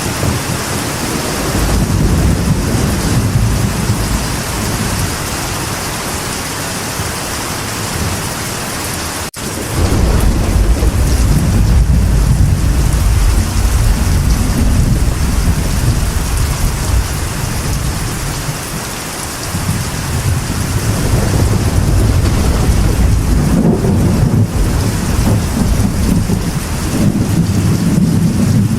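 Steady rain on a metal roof with rolling thunder underneath, the rumbles swelling and easing off several times. A momentary gap in the sound comes about nine seconds in, followed by a louder stretch of rumbling.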